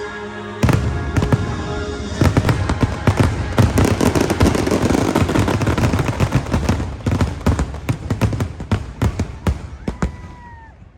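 Fireworks finale: a loud burst about a second in, then a dense barrage of bangs and crackles that thins out toward the end. Show music plays at first.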